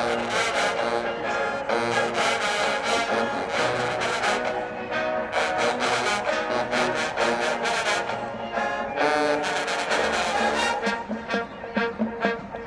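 Marching band playing a song at full volume: brass horns carrying the melody over a steady beat of drum hits.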